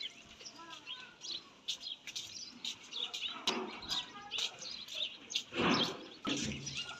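Small birds chirping in many short, quick calls, with a brief noisy burst a little over five seconds in.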